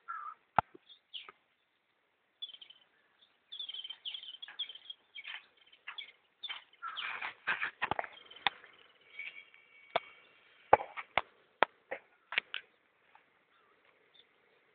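Small birds chirping in short, high calls, with a few sharp clicks scattered among them; the loudest clicks come about eight and eleven seconds in.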